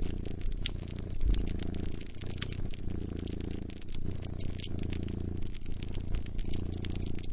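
A cat purring, a low, even hum that swells and fades about once a second with its breathing. Sharp snaps and crackles of a fire come over it throughout.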